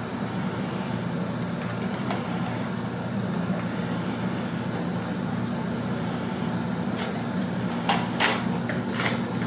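Steady low mechanical hum, with a few light clicks near the end.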